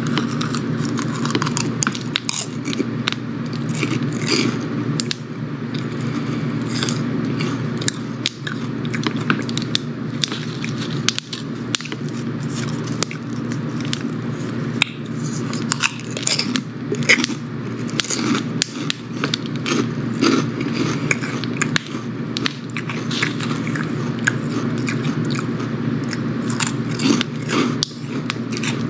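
Crunching and chewing of crispy fried pork rinds, eaten close to the microphone, with dense crackling bites throughout over a steady low hum.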